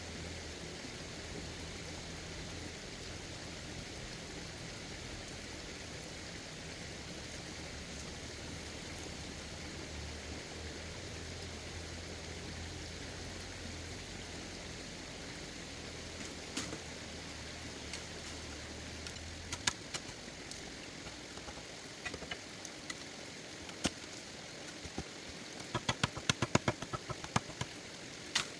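A low, steady motor hum under a hiss, stopping about two-thirds of the way in; after it, scattered sharp knocks and clicks, bunching into a quick run of taps near the end.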